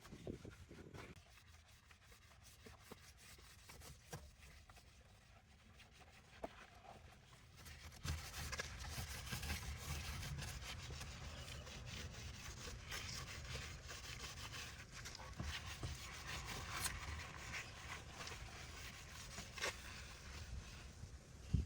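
Steady rough scrubbing of a part, starting about eight seconds in after a stretch of faint clicks and taps.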